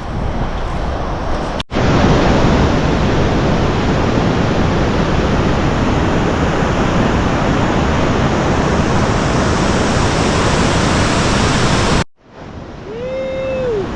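Loud, steady rush of wind buffeting the microphone of a motorbike rider at speed, with two abrupt cuts, one about two seconds in and one near the end. Just before the end comes a short whoop that rises and falls.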